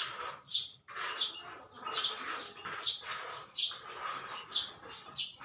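A small bird chirping repeatedly: short, high calls, each sliding down in pitch, about seven of them at an even pace of a little more than one a second.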